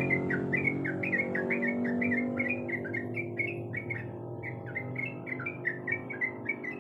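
Yellow-vented bulbul (trucuk) singing a continuous run of short chirping notes, about three or four a second. Underneath is a low steady hum that fades away.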